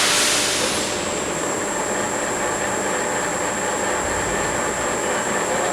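South Western Industries TRL1840SX CNC lathe spindle starting in low gear at 250 RPM: a brief rush of hiss at first, then a steady high-pitched whine over the running noise of the machine.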